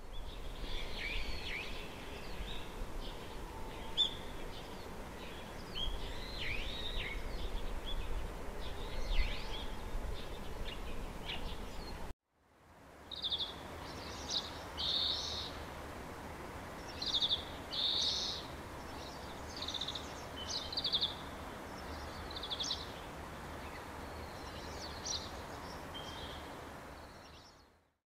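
Wild songbirds calling, with short chirps and trills over a steady low background hiss. About twelve seconds in the sound cuts out briefly, then resumes with a different run of short chirps.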